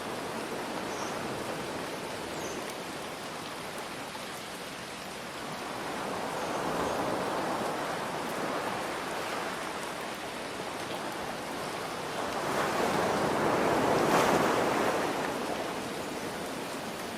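Ocean waves washing in over a steady hiss of rain: two slow swells of surf, the second and louder one cresting near the end.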